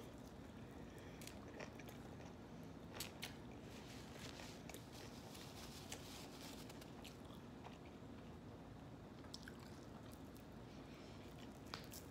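Faint close-miked chewing of a mouthful of double-double cheeseburger, with scattered small wet mouth clicks.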